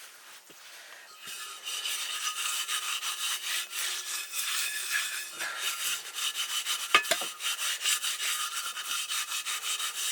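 Fast, even scraping strokes on a hard surface, starting about a second in and cutting off suddenly at the end, with one sharper knock partway through.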